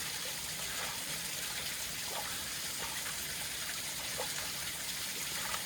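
Small mountain stream running steadily, a constant rush of flowing water.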